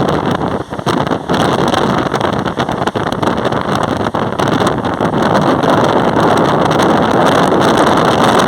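Mumbai suburban local train running at speed, heard from on board: a loud, steady rush of wheel-on-rail and running noise, with wind on the microphone.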